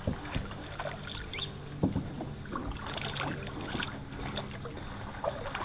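Kayak paddling: paddle blades dipping and splashing in the water, with a few sharp knocks scattered through, the loudest near the start and about two seconds in.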